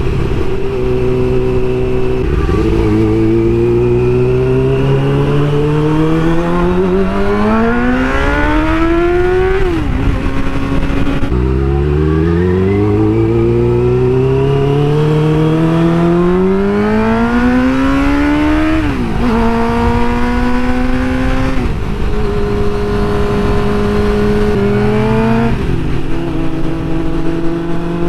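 Suzuki GSX-R600 inline-four engine under way with wind noise over the microphone. It revs up steadily for several seconds twice, each time dropping sharply at a gear change. It then runs at a steady cruising pitch, with another shift down in pitch in the last third.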